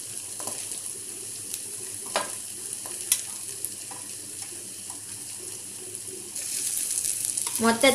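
Carrots, onions and tomato sizzling in hot oil in a metal kadai, a steady hiss with a few light clicks of metal, as sliced green beans are added. The sizzle grows louder near the end.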